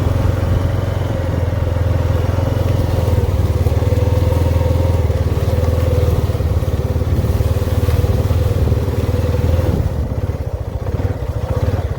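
Honda off-road vehicle's engine running steadily under way, easing off about ten seconds in.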